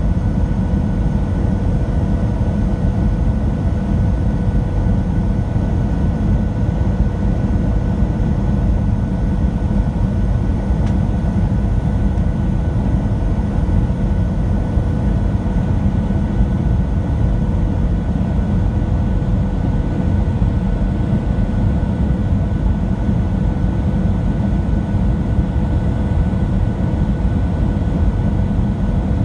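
Steady cabin noise inside a Boeing 737-700 in flight: a deep, even rumble of engine and airflow noise from its CFM56-7B turbofans, with two faint steady tones over it.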